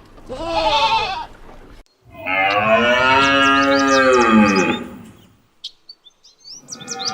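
A goat's short wavering bleat, then after a brief break a long cow moo of about two and a half seconds that drops in pitch at its end, with small birds chirping over it. A second moo begins near the end.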